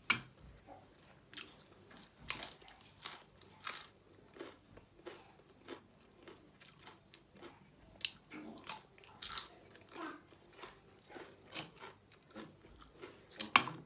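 A person chewing and crunching food close to the microphone, in irregular crisp crunches, while eating spicy stir-fried clams and a raw green vegetable. A sharp click comes right at the start and another near the end.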